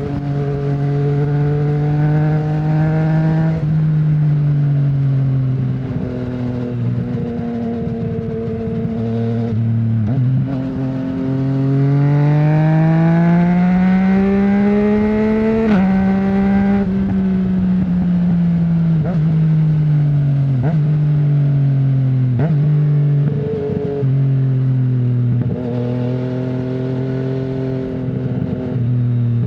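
2020 Yamaha MT-09's 847 cc three-cylinder engine through an Akrapovic full-system exhaust with no dB killer, ridden on the road. It runs steadily at first, then climbs in pitch under acceleration for several seconds until a gear change about halfway through, and afterwards falls away as the bike slows, with several more abrupt gear changes.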